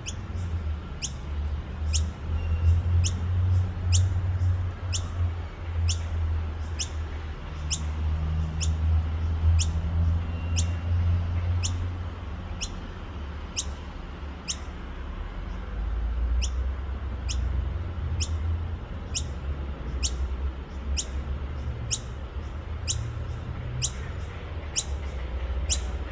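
A baby noisy miner calling over and over, a short high note a little more than once a second, each one sweeping quickly downward in pitch. A steady low rumble lies underneath.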